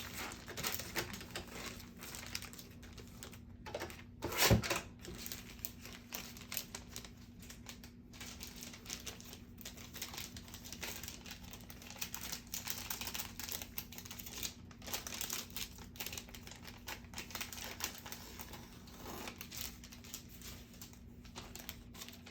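Crafting sounds at a work desk: paper and plastic packaging rustling and crinkling, with many short clicks and snips as a new piece is cut to size with scissors. One louder knock comes about four and a half seconds in.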